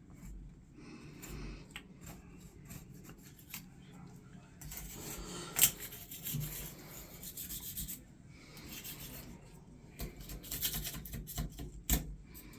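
Hand scrubbing and scraping to clean a part, irregular rubbing strokes mixed with small clicks and knocks, with a sharp click about halfway through and another near the end.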